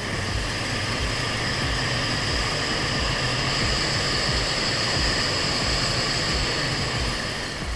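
Cotton-spinning machine running with its spindles turning at high speed: a steady mechanical whirring with a high-pitched whine over it.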